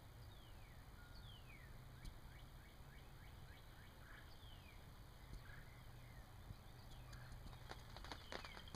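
Quiet rural ambience with a bird's thin, descending whistled notes repeated through the first half. Near the end, raindrops start pattering on the ground blind.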